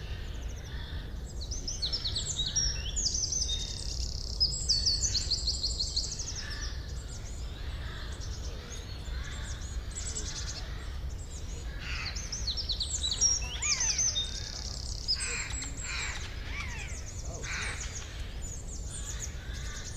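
Several songbirds chirping and singing in fast, high-pitched trills, thickest in two busy spells, over a steady low rumble.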